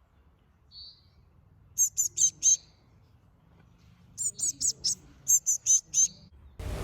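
Baby house finch chicks giving high, repeated cheeping calls, hungry and begging while being fed. There is a quick burst of four calls about two seconds in, then a longer run of about nine calls from about four seconds in.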